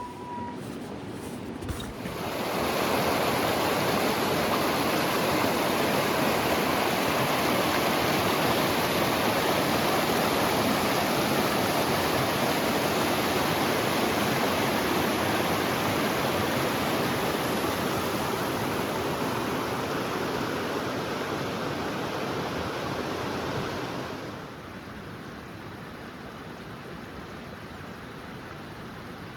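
A loud, steady rushing noise, like flowing water, starts suddenly about two seconds in and stops suddenly near the end, leaving a faint hiss.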